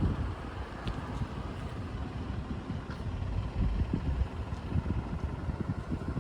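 Suzuki GZ125HS's single-cylinder four-stroke engine running, a steady uneven low rumble.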